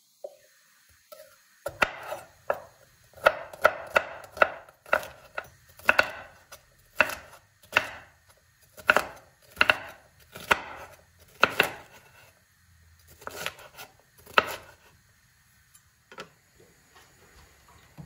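Knife chopping food on a cutting board in a run of single, even strokes, about two a second. After a short pause, a few more spaced chops come near the end.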